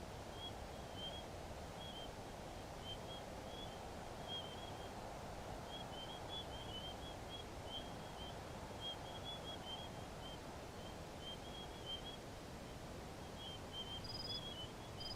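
Faint outdoor ambience: a steady background hiss with a bird giving many short, high chirps throughout, and a few higher notes near the end.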